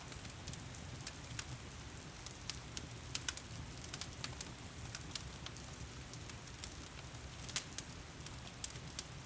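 Fireplace fire crackling, with irregular sharp pops throughout, over a steady hiss of heavy rain and a low rumble.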